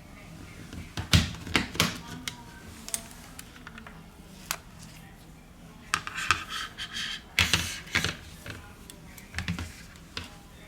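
Scattered sharp clicks and taps with a brief stretch of scraping, from plastic tablet parts and small tools being handled while the tablet is taken apart.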